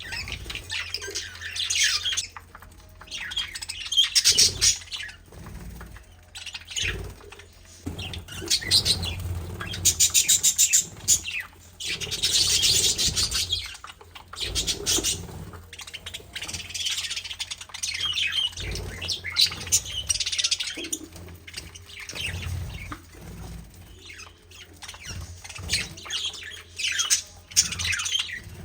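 Pet birds chirping and chattering in rapid, high bursts that come and go every second or two.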